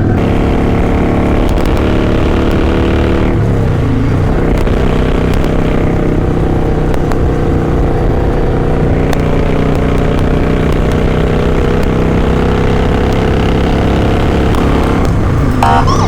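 Kawasaki Vulcan 900's V-twin engine running steadily under way as the motorcycle is ridden. The engine note changes about three to four seconds in, then holds steady.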